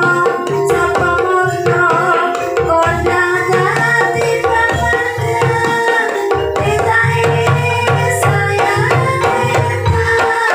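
Ebeg dance accompaniment: a Javanese percussion ensemble with kendang hand drums beating a steady rhythm under rapid struck tuned metal or bamboo notes playing the melody.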